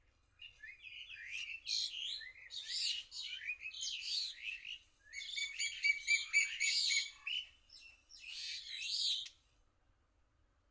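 A songbird singing a long, varied song of quick chirps, whistles and rapid trills, with a brief pause about five seconds in, stopping a little before the end.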